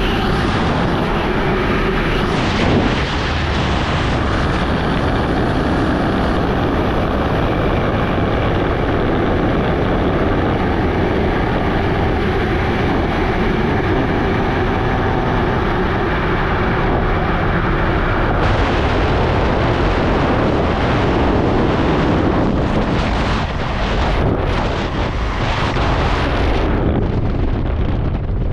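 Jump plane's engine and propeller running at climb power, heard from inside the cabin as a loud, steady drone; a faint high tone in it drops out about two thirds of the way through, and the noise grows more uneven near the end.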